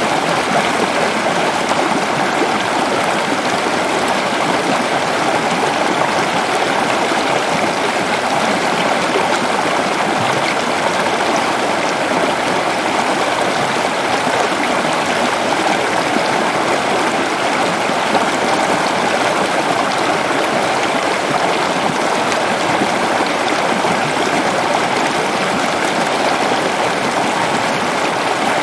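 Waterfall pouring and splashing, a steady, even rush of water with no breaks.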